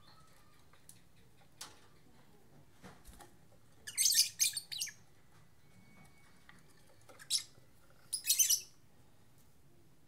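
Lovebirds giving shrill, rapid chirps in short clusters: a burst of chirps about four seconds in, a single chirp a few seconds later, and another cluster near the end.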